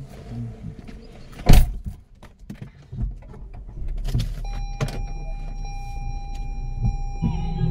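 Car sounds heard from inside the vehicle: a single loud thump about a second and a half in, then a steady low rumble with a thin, steady whine from about four seconds on. Music starts near the end.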